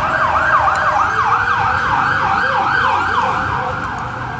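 An emergency vehicle's siren sounding in quick falling sweeps, about three a second, growing fainter near the end.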